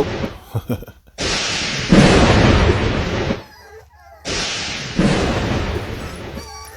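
Two long rushes of noise on the phone's microphone, each about two seconds, with a few short clicks before the first.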